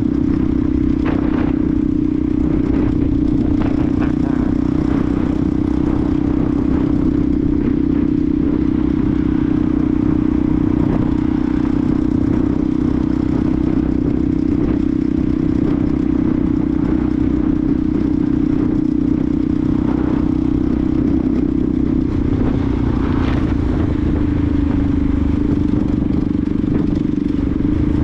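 Benelli TNT 125's single-cylinder engine running steadily as the motorcycle cruises, with wind rumble on the microphone; the engine note drops a little near the end.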